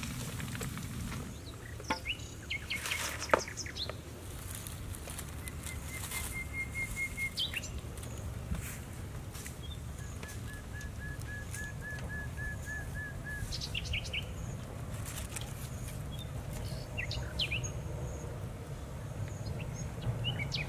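Small birds calling, with two quick, even trills of high notes and scattered chirps over a steady low outdoor background. A few sharp clicks come in the first few seconds.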